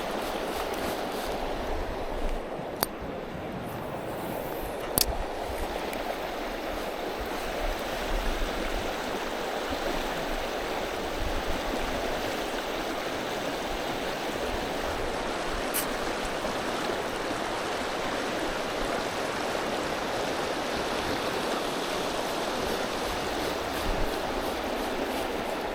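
River current rushing steadily, with a few short clicks.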